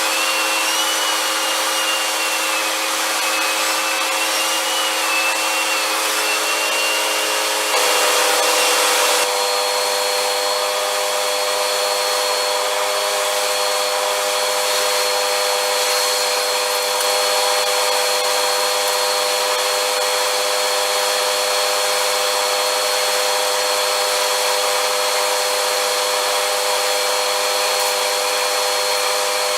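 Vacuum cleaner running steadily with a whining motor. About eight seconds in, a louder rush lasts a second and a half, after which the motor's tone shifts slightly.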